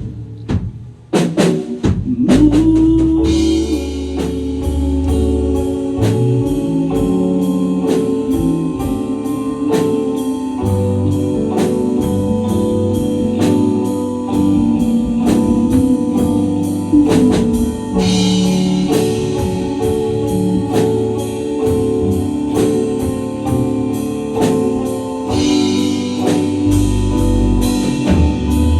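Band music with a drum kit keeping a steady beat under sustained keyboard and bass chords; a few separate drum hits open it, and the full band comes in about two seconds in.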